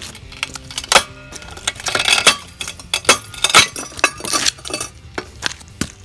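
A geode being cracked in a manual paver splitter: a run of sharp cracks and clinks as the steel blade bites into the stone and it breaks, with the two loudest cracks about a second in and about three and a half seconds in. The geode splits open hollow, lined with white crystals.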